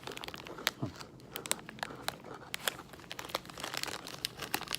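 Plastic granola-bar wrapper being crumpled and handled, a fast irregular crinkling and crackling.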